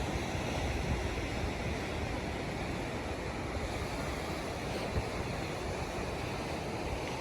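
Sea surf, a steady rushing of waves, with wind buffeting the microphone in a low, gusty rumble.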